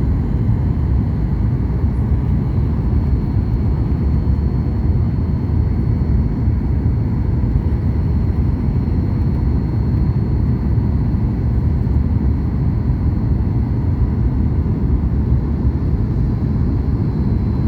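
Steady low rumble of a Boeing 737 MAX 8 in flight heard inside the passenger cabin: airflow and CFM LEAP-1B engine noise, with a faint steady high tone above it.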